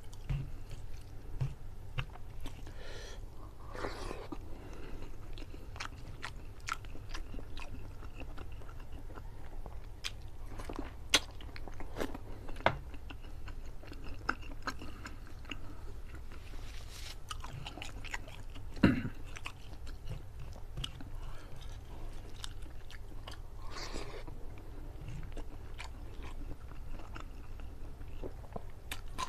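Close-miked wet chewing, lip smacks and crunching bites of a person eating rice and curry chicken by hand, over a low steady hum. Two sharp loud clicks stand out, about eleven and nineteen seconds in.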